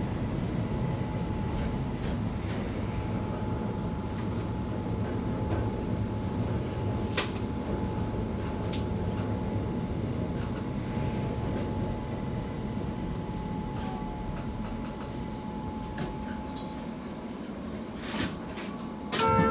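Keihan Keishin Line train pulling out of a station and running, heard from inside the driver's cab: a steady low rumble with a thin steady whine and a few sharp clicks. Just before the end, a loud pitched tone starts.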